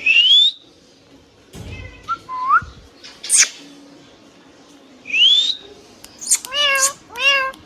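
Pet rose-ringed (Indian ringneck) parakeet whistling and calling: two quick rising whistles about five seconds apart, a short sharp call between them, and a run of rising calls near the end.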